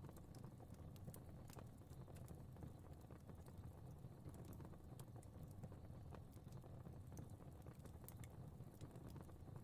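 Faint fireplace crackling: scattered sharp little pops and snaps, irregular, over a low steady rumble of the flames.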